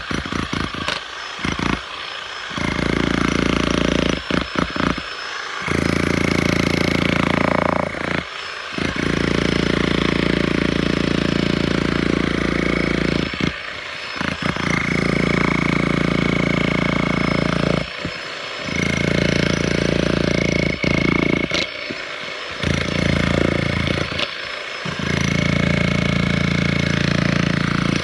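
Bosch GSH 11 VC SDS-max demolition hammer breaking up a concrete foundation. It runs in repeated bursts of a few seconds with short pauses between, a steady rapid hammering.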